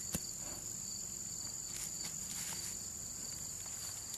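Insect chorus trilling: a steady, continuous high-pitched buzz with a softer pulsing trill beneath it. A single short click comes just after the start.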